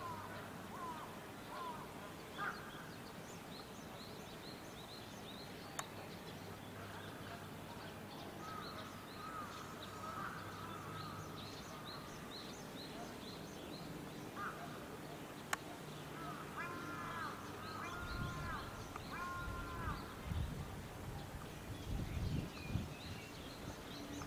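Birds calling: a steady run of short, high chirps throughout, and a series of several louder arched calls about two-thirds of the way through. Two sharp clicks come at about six seconds and at about fifteen seconds, and a low rumbling starts in the last several seconds.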